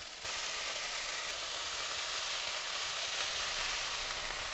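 Fiddlehead ferns sizzling steadily in a pot as they cook, a little louder from about a quarter second in.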